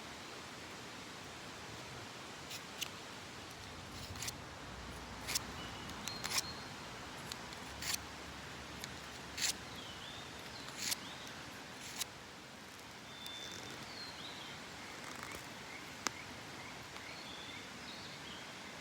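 Steady outdoor hiss with irregular sharp clicks and snaps, over a dozen scattered through, and a few faint short chirps and whistles in the second half.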